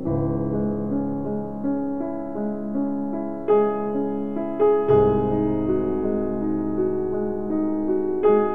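Background piano music: a gentle melody of sustained notes, with fresh chords struck about halfway through.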